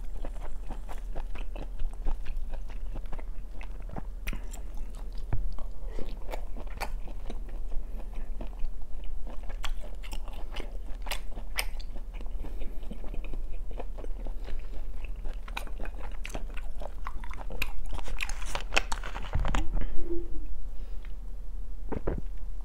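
Close-miked mouth sounds of a person chewing grilled beef: many small wet clicks and smacks. Near the end, gulps of cola from a bottle, over a low steady hum.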